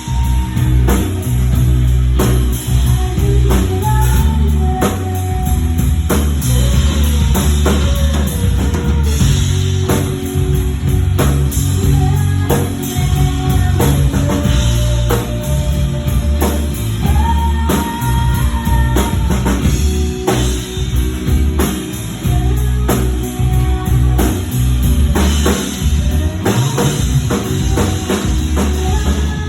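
Rock band playing live: drum kit, bass guitar and electric guitar, with steady drum hits and a melodic line on top.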